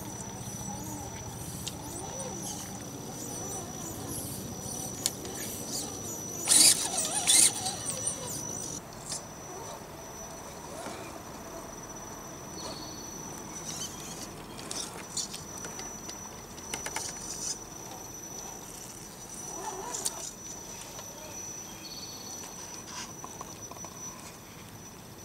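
Electric motor of an RC crawler truck giving a steady high-pitched whine as it creeps along, cutting out and back in a few times. A short cluster of loud clattering noises comes about a quarter of the way in, with scattered clicks and knocks.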